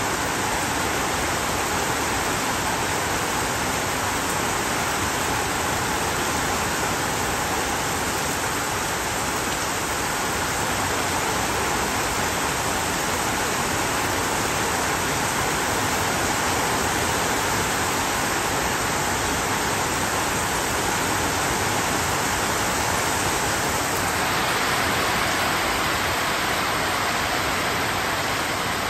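Heavy rain: a downpour falling in a steady, even hiss.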